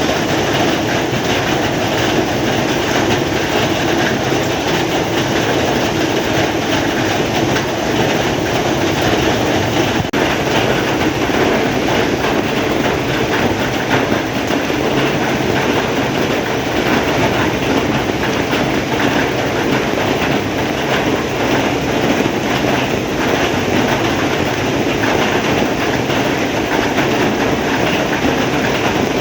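Heavy rain falling steadily, a dense even hiss of rain without a break.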